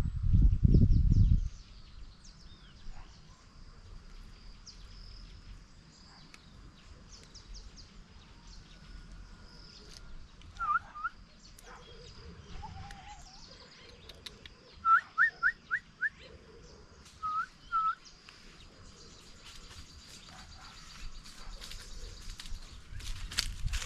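Birds calling: a pair of short whistled chirps, then a quick run of five louder chirps a little past the middle, then two more. A faint steady high-pitched tone runs underneath. A loud low rumbling noise fills the first second and a half.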